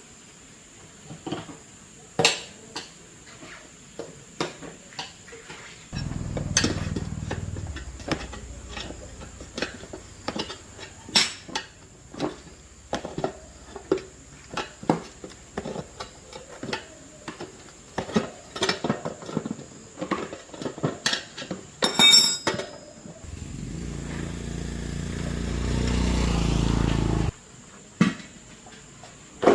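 Repeated metallic clinks and taps of tools and small parts being handled. A small motor runs twice: once about a fifth of the way in, fading, and again near the end, growing louder before stopping abruptly.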